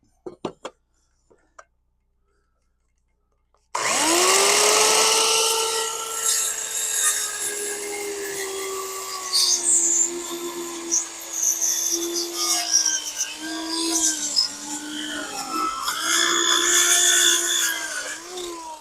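Handheld circular saw starting up about four seconds in, its motor whine dipping in pitch several times as the blade cuts across the end of a board, then spinning down at the end. The cut trims off a chainsaw-cut board end to give a fresh square end.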